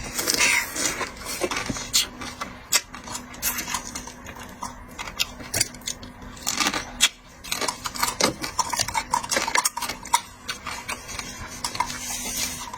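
Irregular clicks and clinks of tableware and seafood being handled during a seafood meal, over a faint steady hum.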